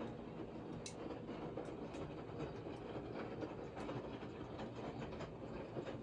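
Washing machine running: a steady rumble with many small clicks and light knocks scattered through it.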